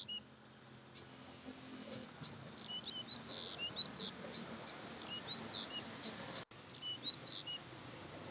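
A small bird chirping repeatedly: short, high, sweeping chirps in little groups about every second, over a faint steady low hum.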